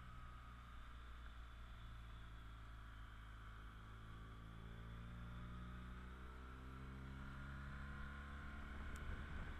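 BMW R1200GS flat-twin motorcycle engine running, faint, its pitch rising steadily through the second half as the bike gathers speed.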